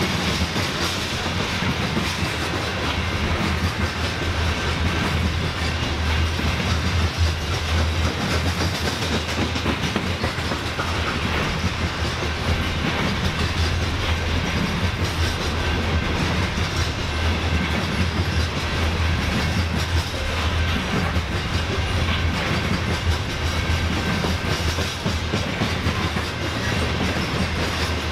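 A train's railcars rolling past on the track in a steady, continuous rumble.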